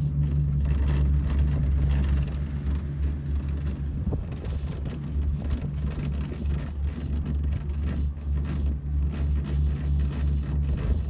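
Car driving: a steady low drone that holds an even pitch and level throughout.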